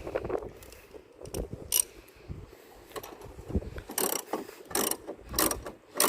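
Ratchet wrench clicking in short bursts of strokes while tightening a bolt on a car strut's top mount.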